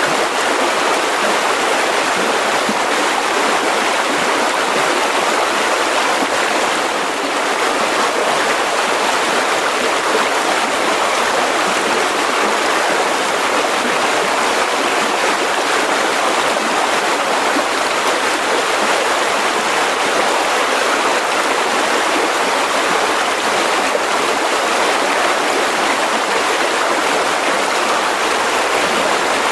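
Mountain river rushing over rocks: a steady, continuous churn of flowing water.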